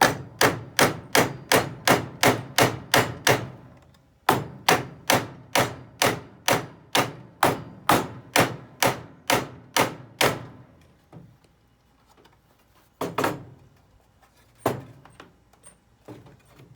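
Hammer driving a nail into wood in two long runs of quick, even blows, about three a second, then a few single blows near the end. The nail goes in hard because it has hit a knot in the wood.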